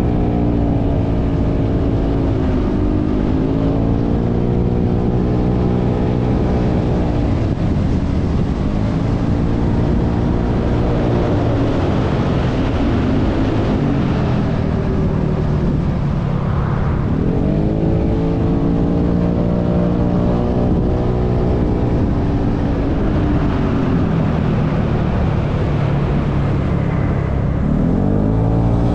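Motorcycle engine under way, its note rising and falling several times as it accelerates and eases off, over steady wind and road noise.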